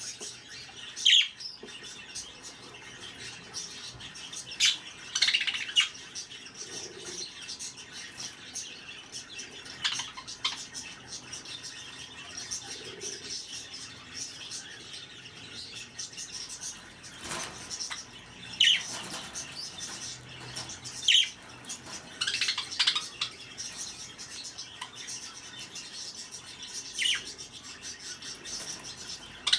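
Pet budgerigars chattering: a continuous high twittering broken every few seconds by short, sharp, louder calls.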